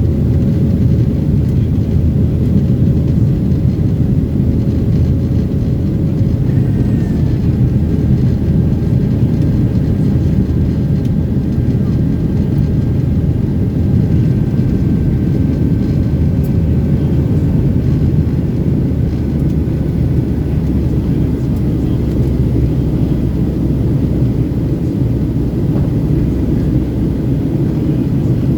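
Airplane taking off: a loud, steady low rumble of engines and rushing air that holds evenly throughout.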